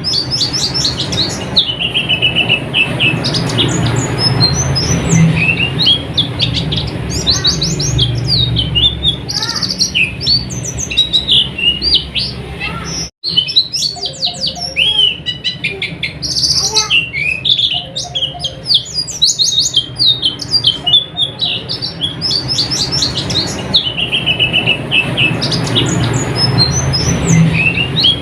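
White-eye (pleci) singing a fast, near-continuous twittering song of high chirps and trills over a low steady hum. The sound cuts out completely for a moment about 13 seconds in.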